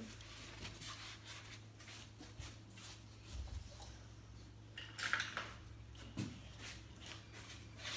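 Faint clicks, taps and light scraping of small die-cast toy cars and track pieces being handled, with a soft thump about three and a half seconds in.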